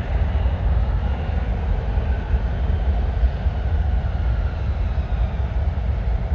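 Jet airliner engines running with a steady deep rumble and a faint whine that slowly glides in pitch as the aircraft passes.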